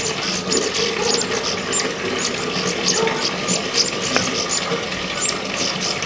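High, thin bird chirps repeating about twice a second, over a steady background hum.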